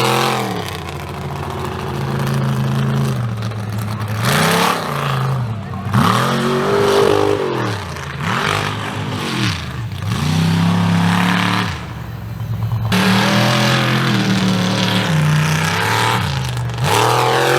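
Mega mud truck engine revving hard, its pitch climbing and dropping again and again and held high for a few seconds at a stretch.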